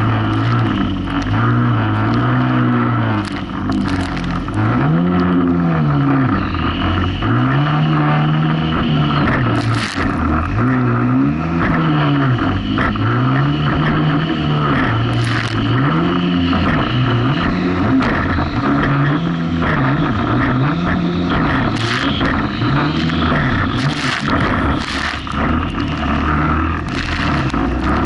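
Jet ski engine running hard, its pitch rising and falling again and again, about every two seconds, as the craft rides through rough waves, with short bursts of splashing.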